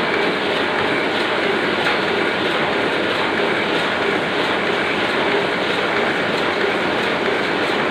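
Oliver 6 printing press running at a steady working pace: a continuous, even mechanical clatter with a regular repeating beat.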